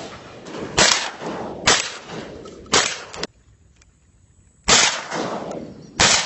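Hunting guns firing at birds: five gunshots over about six seconds, each echoing away, four coming roughly a second apart and the last after a short lull.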